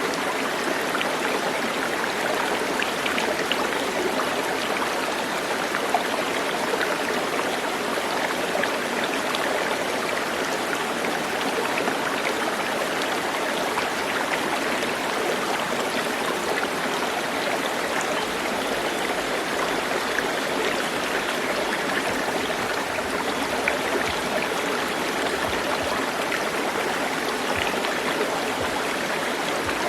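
Running water, a steady, even rush that holds without change.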